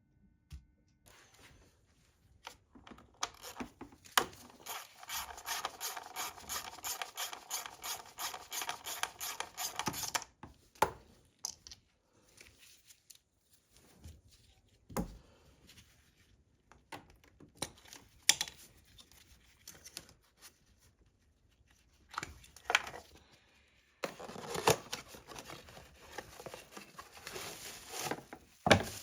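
Hand-tool work on the car: a run of rhythmic rasping strokes, about four or five a second, then scattered clicks and knocks, and a rougher stretch of scraping near the end.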